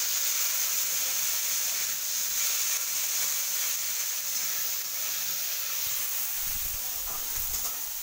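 Chopped onion frying in hot oil in a metal kadai, a steady sizzling hiss as it is stirred.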